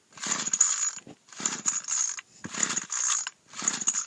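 Recoil pull-starter of a cold Craftsman 25cc two-stroke string trimmer being yanked four times, about once a second, cranking the engine over without it catching, with the choke off and no throttle given.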